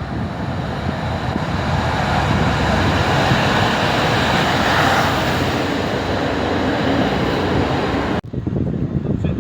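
A train passing through the station: a loud rushing rumble that swells to a peak about halfway through and eases off, with wind on the microphone, cutting off suddenly near the end.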